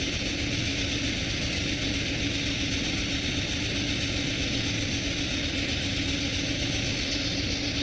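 Steady mechanical hum and hiss with one even low tone, unchanging throughout.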